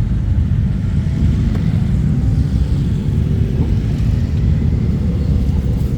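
Motorcycle engines running steadily with a deep rumble, a faint engine note rising and falling about midway.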